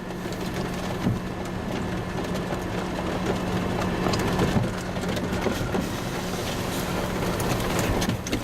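Vehicle cabin noise with the doors and windows shut: a steady engine hum under a rushing noise, with scattered small ticks, growing a little louder over the first few seconds.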